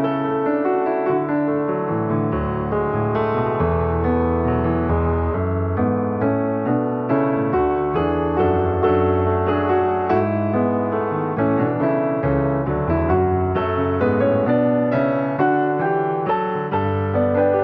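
Background piano music: a slow, gentle piece with sustained chords and single notes.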